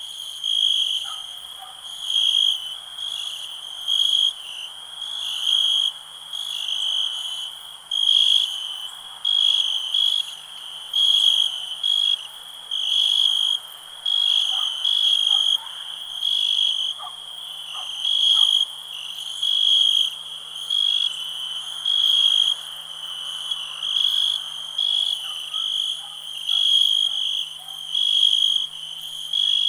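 Crickets chirping: one loud cricket repeats a high, even chirp about once a second over a steady background trill.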